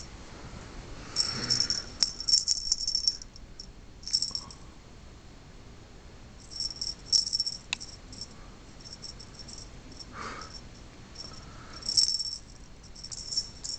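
A kitten's rattling toy jingling in short, irregular bursts as it is batted and chased around.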